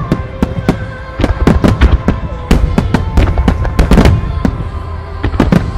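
Starmine barrage of aerial firework shells: a dense, rapid string of loud booms and cracks, several a second, over a continuous low rumble of shells bursting and echoing.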